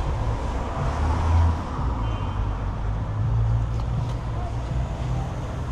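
Street traffic passing: a steady low rumble of road vehicles that swells about a second in and again around three seconds in.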